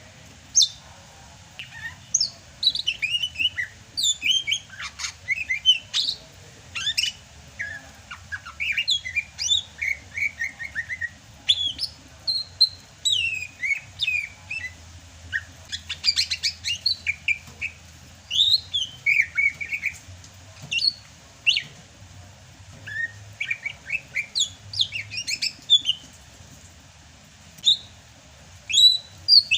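Greater green leafbird (cucak hijau) singing continuously: a rapid, varied stream of short chirps and sweeping whistled notes with only brief pauses, a bird in full song (gacor).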